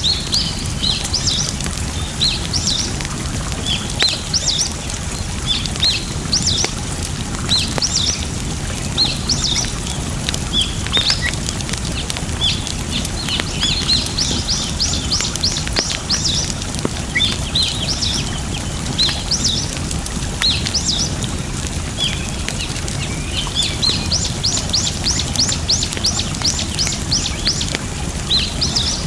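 Small birds chirping again and again, with two runs of quick repeated notes, over a steady low rush of flowing water and the odd faint crackle of a wood campfire.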